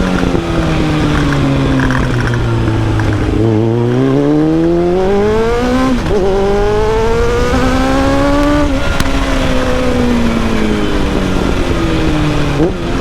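Kawasaki ZX-7R's inline-four engine under way: the revs fall as the bike slows, then climb hard through a gear change about 6 s in, ease off after about 9 s, and a quick rev blip near the end marks a downshift. A steady rush of wind runs under it.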